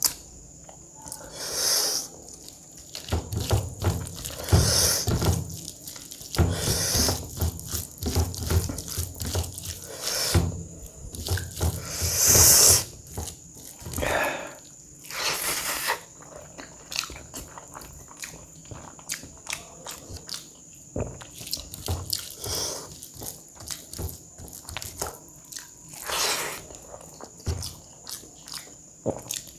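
Close-miked eating sounds: wet chewing and smacking of a mouthful of rice with curry, coming in irregular bursts every few seconds.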